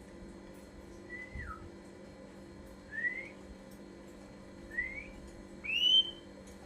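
Ashy drongo giving four separate clear whistled notes. The first holds level and then drops; the other three slur upward, and the last, near the end, is the loudest.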